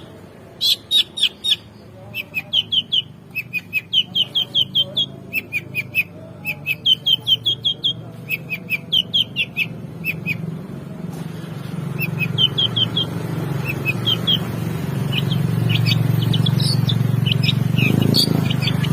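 Long-tailed shrike singing in fast runs of short, sharp, high chirping notes, four to seven notes to a run, loud in the first half and softer in the second. A low hum builds underneath in the second half.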